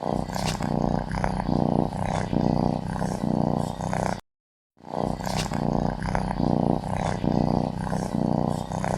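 A tiger growling and roaring in a run of rough pulses, about two a second. The same four-second stretch plays twice, with a brief cut to dead silence between.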